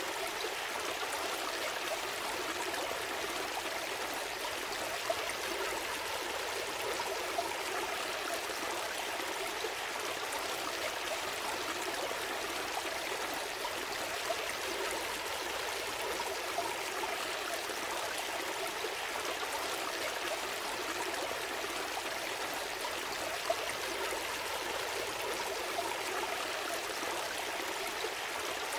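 A gentle stream flowing, a steady rush of running water with a few faint splashes and drips.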